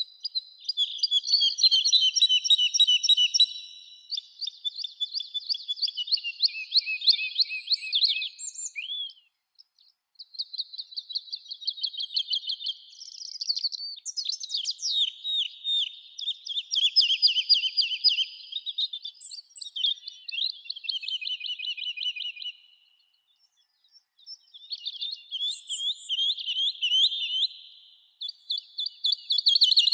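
Songbirds singing in phrases of a few seconds each, made of rapid trilled notes, with brief pauses between phrases.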